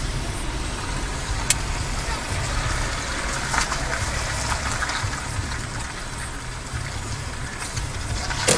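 Steady road noise from a car, a low engine-and-tyre rumble with a hiss of tyres on the road, heard through a dashcam. Two sharp clicks, about a second and a half in and near the end.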